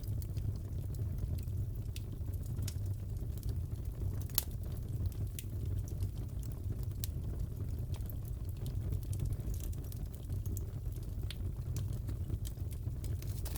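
Crackling fireplace: a steady low rumble of the fire with sharp pops and crackles from the burning wood scattered throughout, one louder pop about four seconds in.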